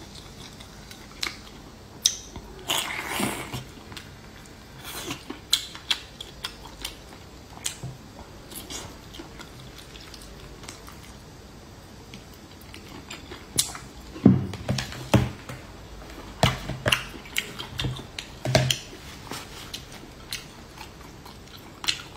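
A person biting and chewing whole spicy braised squid into a close ASMR microphone: irregular sharp clicks and short bites, busiest and loudest about two-thirds of the way through.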